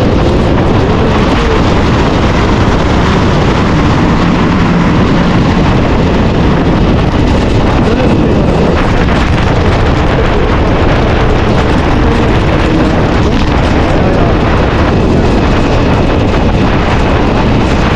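Steady, loud wind noise buffeting the microphone of a motorcycle ridden in heavy rain, with the CFMoto 450SR's parallel-twin engine running faintly beneath it, its pitch shifting a little as the rider changes speed.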